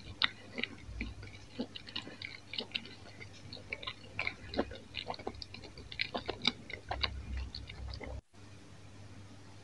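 Close-miked chewing of a mouthful of sausage pizza, closed-mouth, with many small wet clicks and crackles at an irregular pace. The sound cuts out abruptly for a moment about eight seconds in.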